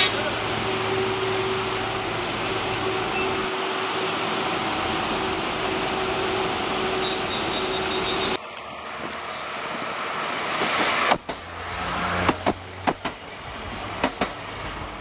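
A train engine running steadily with a held humming tone, then a train approaching and passing close by: a rising rush of noise with sharp clicks as its wheels cross rail joints.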